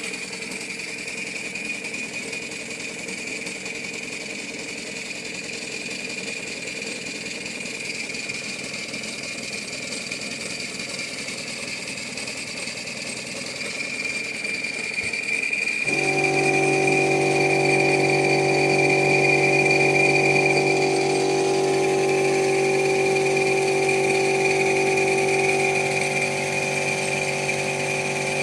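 LBSC Ayesha model steam locomotive's mechanism running on test with its axle-driven pump working: a steady mechanical whirr with a constant high whine. About 16 seconds in, a louder, lower steady hum joins in and holds.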